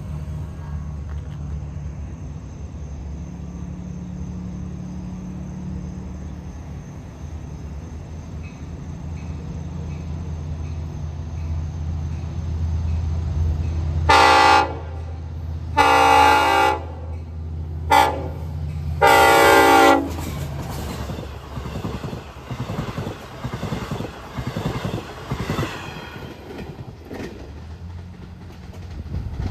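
Long Island Rail Road diesel passenger train coming at a grade crossing, its engine rumbling steadily as it nears. About halfway through, the horn sounds the grade-crossing signal: long, long, short, long. The train then passes with its wheels clicking rhythmically over the rails.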